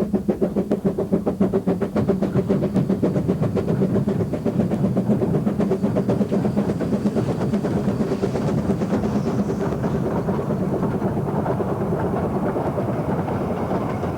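Narrow-gauge steam locomotive of the Vale of Rheidol Railway working along the line, its exhaust beating steadily at about four beats a second. The beats grow closer together and softer towards the end.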